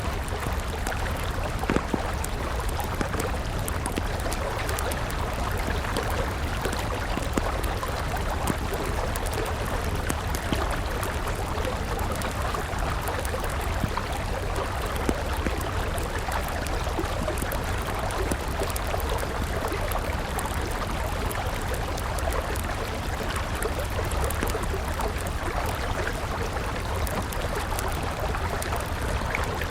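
River water flowing in a steady rushing stream, with a wood campfire crackling over it in scattered sharp pops.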